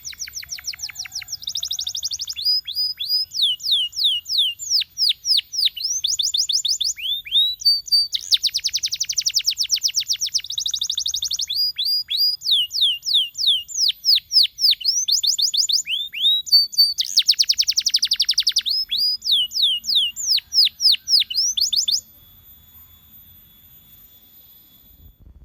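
Domestic canary singing a long song of fast repeated high notes, each sweeping downward, broken by two dense rapid trills; the song cuts off abruptly near the end.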